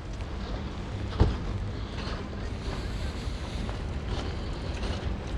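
Wind buffeting the microphone as a steady low rumble, with a single sharp thump about a second in.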